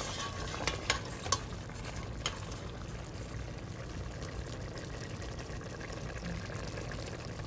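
Food simmering and sizzling in a pot, a steady hiss, with a few sharp clicks in the first couple of seconds.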